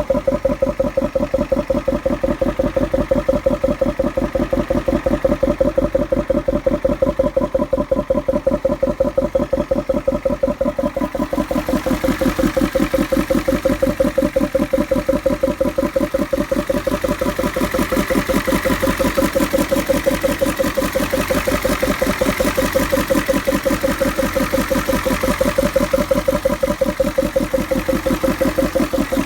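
Ford 6.9-litre IDI V8 diesel engine idling with an even pulsing beat and a rhythmic 'bong bong' noise from the air intake. The owner puts the noise down to a plugged hydraulic lifter.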